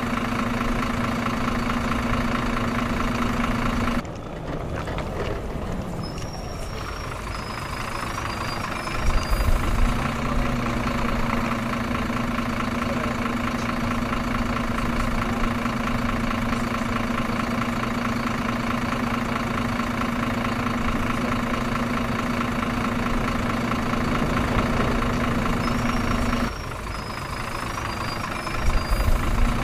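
Truck engine idling steadily. The sound drops out abruptly twice, about 4 seconds in and near the end, and builds back up each time, as if one recording is being repeated.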